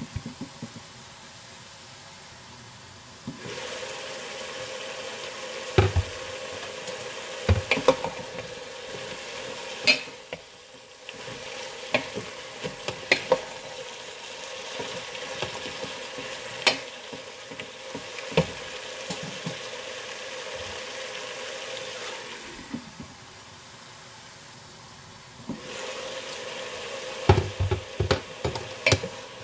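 Sliced beets and carrots sizzling in oil in a deep pot, stirred with a wooden spoon that knocks against the pot every second or two. A faint steady hum runs underneath. The sizzle is softer for the first few seconds and again briefly later on.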